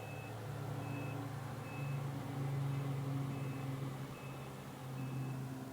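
Snowplow's engine running steadily while its back-up alarm beeps about once a second as it reverses.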